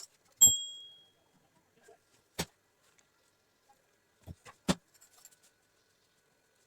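Kitchen handling sounds: one sharp ringing clink about half a second in, like a hard utensil striking a dish, then three short knocks spread over the next few seconds.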